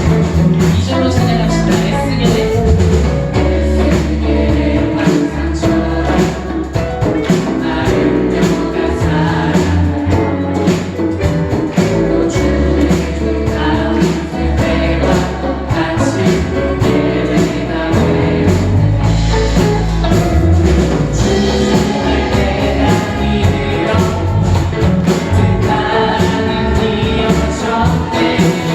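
Church praise team singing a Korean worship song in several voices over a live band, with bass and a steady drum beat.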